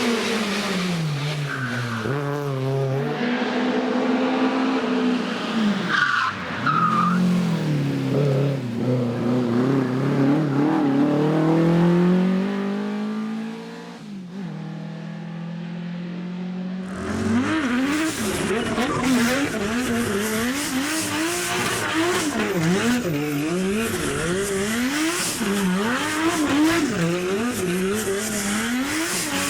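Racing car engines on a hillclimb: one car accelerating hard, its engine note climbing and dropping back with each gear change. About seventeen seconds in the sound switches abruptly to another car revving rapidly up and down as it drives through corners.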